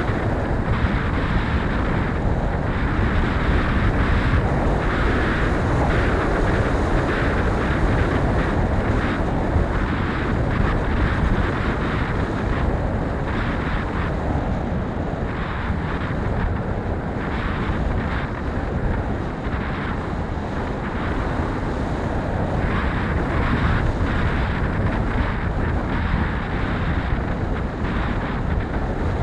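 Strong wind buffeting the microphone: a loud, steady, fluttering rush of noise, heaviest in the low end.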